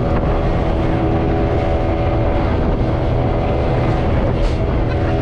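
Motorboat engine running steadily, a constant drone mixed with a rushing noise of wind and water.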